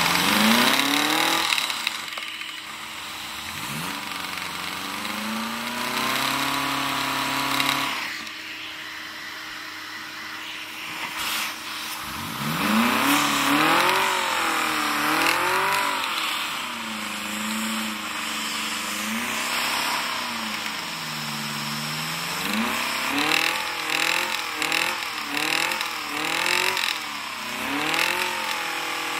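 A motor's whine repeatedly revving up and down in pitch, rising and falling several times, with a quick back-and-forth wobble in pitch near the end.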